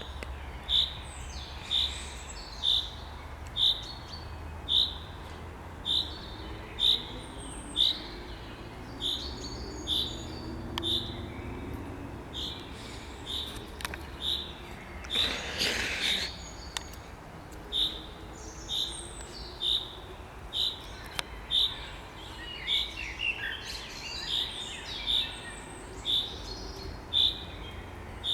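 A bird repeating one short, high call note about once a second, with other birds warbling faintly, more so near the end. A brief rush of noise comes about halfway through, over a low steady rumble.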